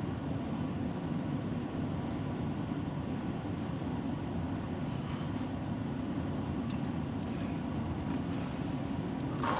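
A steady low rumbling drone, even throughout, with no distinct events.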